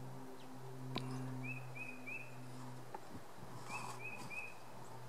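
Small birds calling: a short chirp repeated three times in quick succession, heard twice. Under it runs a steady low hum, with a single click about a second in.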